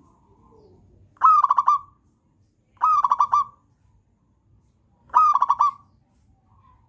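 Zebra dove (perkutut) cooing: three short phrases of rapid rolling notes, each under a second long and about two seconds apart, with fainter coos between them.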